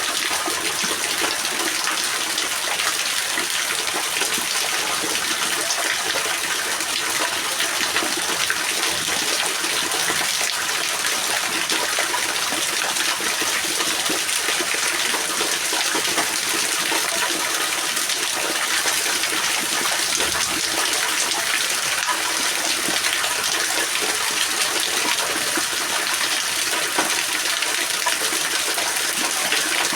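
Steady rain: a dense, even hiss of falling water that holds unchanged throughout, with no thunder or single loud drops standing out.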